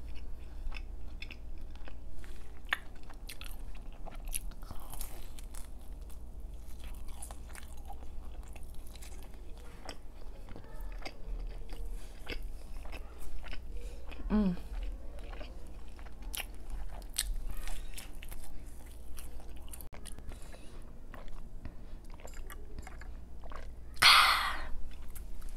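Close-miked eating of pizza: biting into the crust and chewing, with many small wet mouth clicks. A short hum with a falling pitch comes about halfway, and a brief breathy hiss near the end is the loudest sound.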